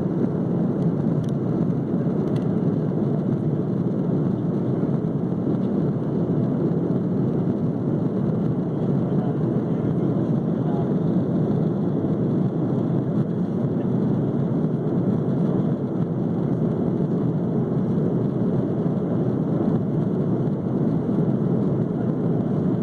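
Steady airliner cabin noise at cruise altitude: an even, unbroken rush of airflow and engine sound.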